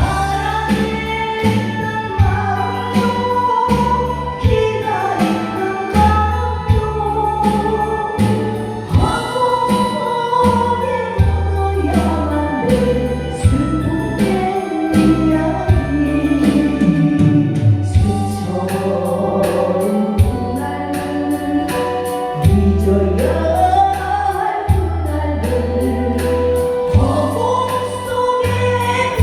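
A voice singing a song over music with a steady beat and a strong bass line.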